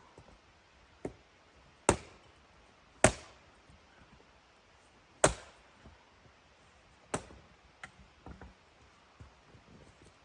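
Wood being chopped: a series of sharp strikes at uneven intervals, loudest around three and five seconds in.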